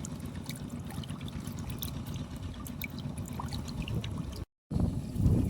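Shallow muddy water sloshing and splashing in a flooded rice field, with small scattered ticks of dripping and a steady low rumble; the sound cuts out for a moment about four and a half seconds in, then returns with a louder slosh.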